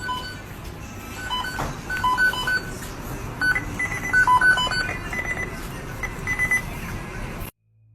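A series of short electronic beeps at a few different pitches, in an irregular pattern over a steady low hum, cutting off suddenly near the end.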